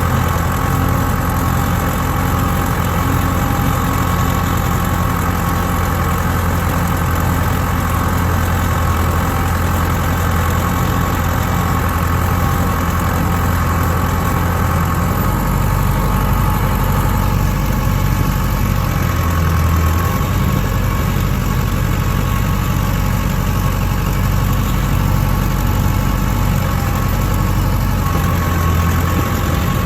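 Vehicle engine idling steadily; its deepest tone shifts about halfway through.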